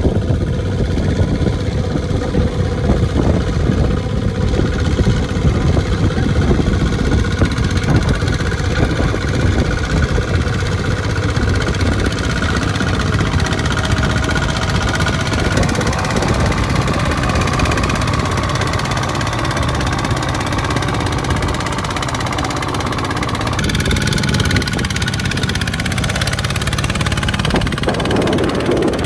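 Small farm tractor engine running steadily. The sound shifts abruptly about twenty-three seconds in.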